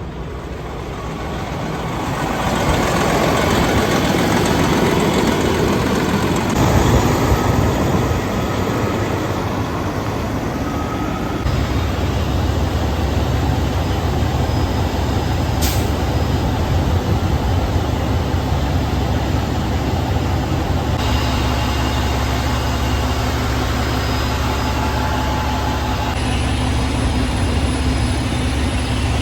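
Semi-truck engine running, a steady low rumble with vehicle noise, its sound changing abruptly every several seconds.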